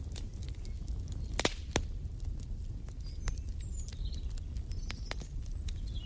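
Wood fire crackling in a fireplace: irregular sharp pops and snaps over a low steady rumble of the flames, the two loudest pops about a second and a half in. Faint bird chirps in the second half.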